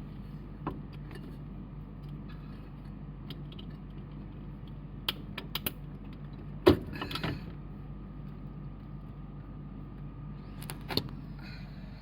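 Scattered sharp clicks and light metallic clinks, with one loud knock about six and a half seconds in and a short cluster of clicks near the end, over a steady low hum.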